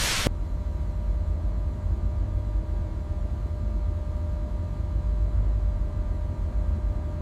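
Steady low machinery rumble with a faint steady hum above it. A short burst of hiss cuts off just after the start.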